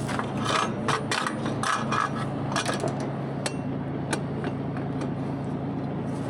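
An engine running steadily, with irregular sharp clicks and knocks over it, most of them in the first half.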